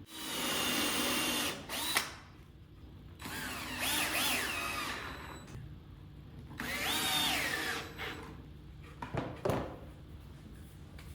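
Power drill run in several short bursts, its whine rising and falling in pitch as the trigger is squeezed and eased.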